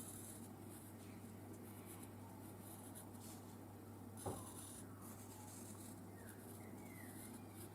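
Pencil tracing around a paper template, faint scratching in short strokes. A low steady hum lies underneath, and there is one light tap about four seconds in.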